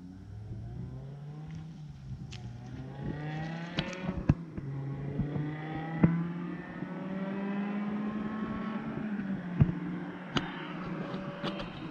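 BMW E60 M5's 5.0-litre V10 with a straight-piped exhaust, pulling gently at low revs, its note rising steadily and then dropping back about nine seconds in as the throttle eases. A few sharp clicks sound over it.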